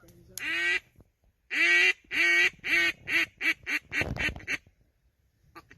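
Mallard duck call blown in a hen-style cadence: a single quack, then a run of about nine quacks that get shorter and quicker and slowly fade.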